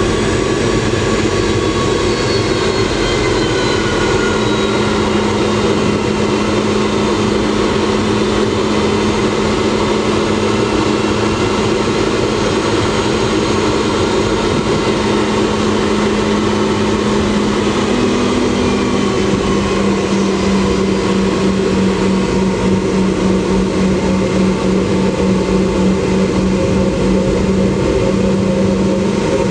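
Rolls-Royce BR715 turbofans of a Boeing 717 heard from inside the cabin: a steady loud roar with high whines that fall in pitch over the first few seconds. A low hum underneath starts to throb in a steady beat about twenty seconds in.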